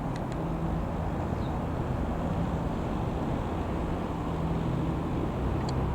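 Piper PA-28-151 Cherokee Warrior's four-cylinder piston engine, a steady drone as the light aircraft flies over.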